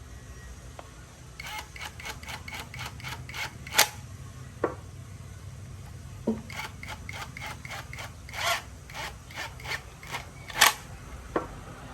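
Rhythmic scraping strokes of a hand tool, about four a second, in two runs, with a few sharp knocks between them.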